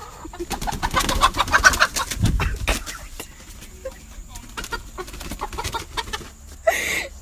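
Bird calls mixed with many short clicks and taps, and a brief noisy burst near the end.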